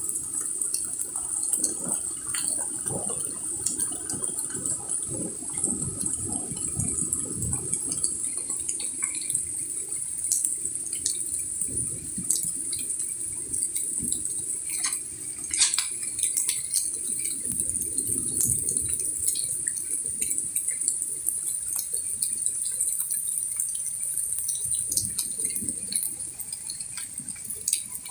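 Steady rain falling, with many small taps and splashes of drops and water running.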